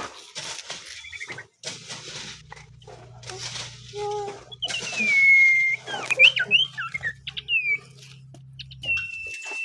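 A common iora (cipoh) whistling in an unhurried, subdued way. It gives a few short gliding notes, a falling whistle midway and one long drawn-out whistle near the end, with rustling bursts between the phrases. A low steady hum runs under most of it.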